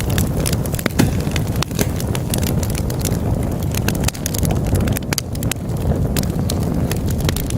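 Wood fire burning in a fireplace: a steady low rumble of flames with frequent, irregular crackles and sharp pops from the burning logs, one louder pop about a second in.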